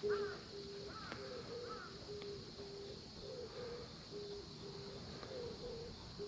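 Faint birdsong: a low hooting call of short notes repeating in phrases about every second or two, with a higher chirping call over it. A single short knock right at the start.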